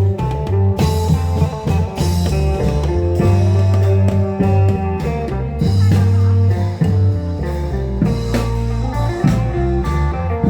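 Isan klong yao procession band playing: an amplified guitar melody over a bass line and drums.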